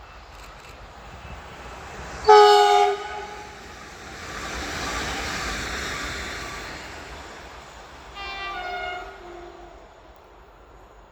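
Railway horn sounding the Rp1 warning signal twice, a short blast about two seconds in and a longer one near the end, with the rumble of a train passing between them.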